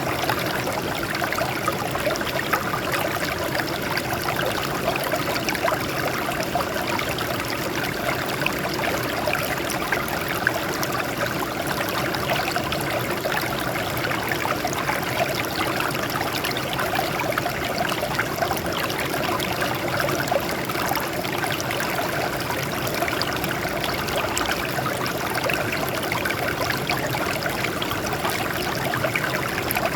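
Water flowing and splashing over rocks in a stream, a steady babbling with many small trickles and splashes.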